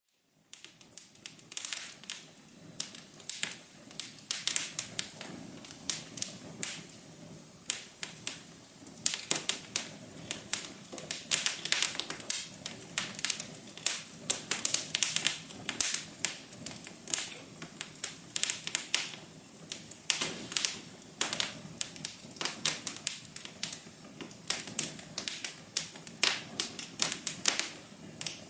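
Fireplace wood fire crackling: many irregular sharp pops and snaps over a soft low rumble. It cuts in suddenly at the start out of near silence.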